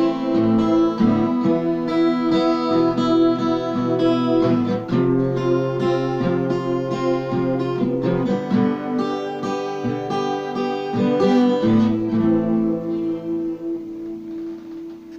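Acoustic guitar music, strummed chords with a steady rhythm, fading out toward the end.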